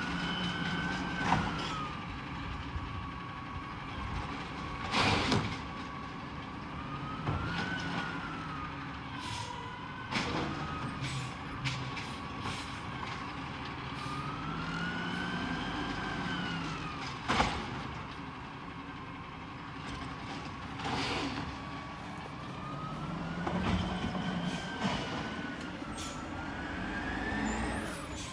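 Peterbilt 320 garbage truck with an Amrep packer body working: the engine revs up and settles back in repeated cycles, with a whine that rises and falls in pitch along with it, typical of the hydraulic packer running. Sharp bangs and clanks break in several times, the loudest about 17 seconds in.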